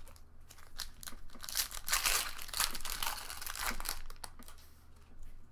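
Foil wrapper of a Pokémon booster pack crinkling and being torn open. The crackling is thickest and loudest in the middle stretch.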